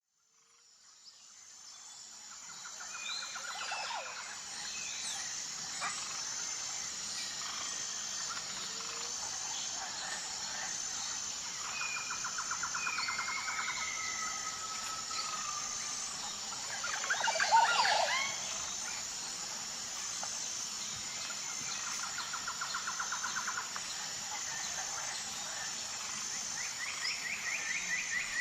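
Outdoor nature ambience fading in: several birds singing, with repeated rapid trills and short whistled glides, over a steady high insect chirping in an even rhythm. One louder bird call stands out a little past the middle.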